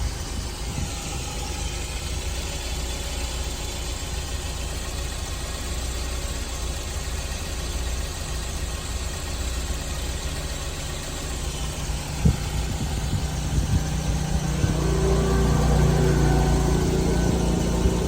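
1998 Toyota TownAce van engine idling steadily. A few sharp clicks come a little past halfway, then the engine note grows louder and holds near the end.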